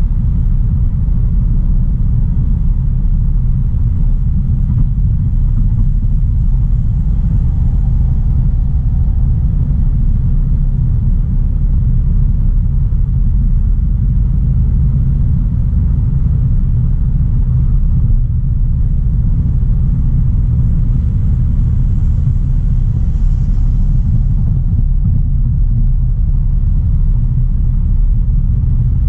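Steady low driving rumble of a 2016 Audi A3 Sportback with its 1.4 TFSI turbocharged four-cylinder engine, engine and road noise together while cruising at an even pace.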